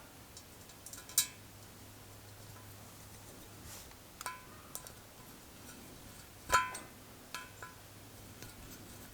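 Small hard objects, likely metal parts, clinking and set down a few times, each clink ringing briefly; the loudest comes about two-thirds of the way through, over a faint steady hum.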